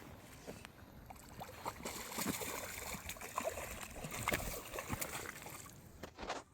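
Water splashing and sloshing as a hooked fish thrashes at the surface while it is played in, the splashes loudest in the middle few seconds.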